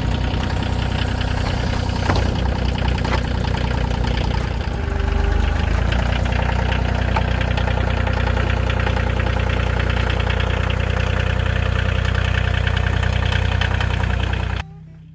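Kioti CK2610 compact tractor's three-cylinder diesel engine running steadily while it works the backhoe. The engine dips and then swells briefly about five seconds in, and the sound cuts off abruptly near the end.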